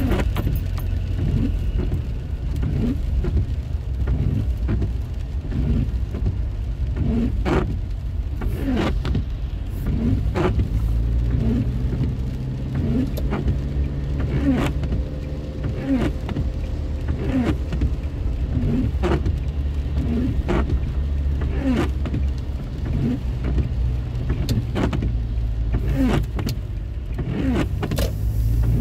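Car cabin noise while driving: a steady low rumble from the engine and tyres on the road, with a soft knock roughly once a second and scattered light clicks.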